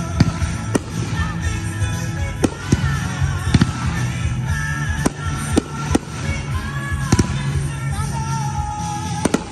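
Fireworks finale: about a dozen sharp bangs in irregular succession, over music.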